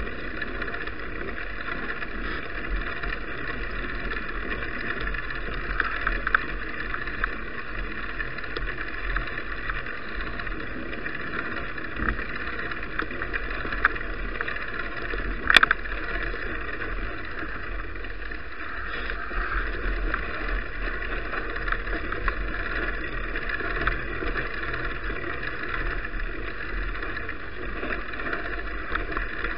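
Steady wind and road noise from a moving bicycle picked up by an action camera's microphone while riding, with one sharp click about halfway through.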